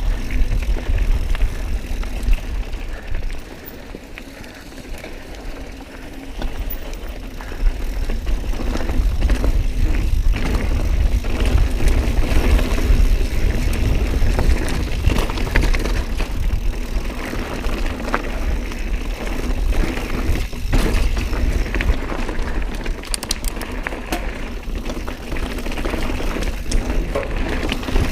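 Mountain bike riding a rocky trail: tyres and frame knock and rattle over rocks under a constant low rumble of wind buffeting the mic. It quietens for a few seconds shortly after the start, then picks up again.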